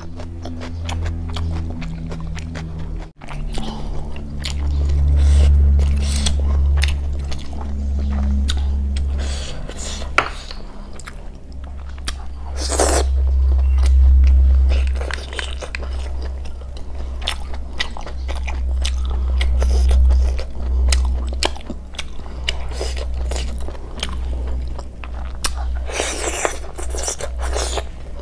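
Close-miked eating of snail curry: chewing and wet mouth sounds with frequent sharp clicks, and two longer rushing noises, one near the middle and one near the end.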